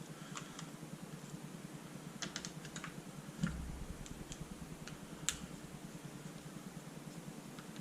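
Scattered light clicks and taps of paintball marker parts being handled during disassembly, with a quick cluster of clicks about two seconds in, a dull thump about three and a half seconds in and a sharper click about five seconds in, over a steady low hum.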